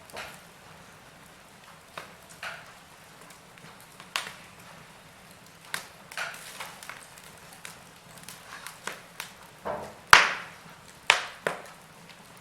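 Wood fire crackling in a fireplace: scattered sharp pops and snaps from the burning logs over a faint steady hiss. The loudest pop comes about ten seconds in, with another strong one a second later.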